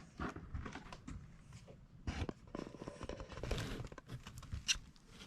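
Light handling noises of parts and packaging being sorted: scattered small clicks, taps and rustles.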